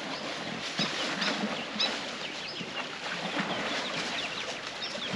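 Small birds chirping over and over, short high notes that drop in pitch, over a steady outdoor hiss.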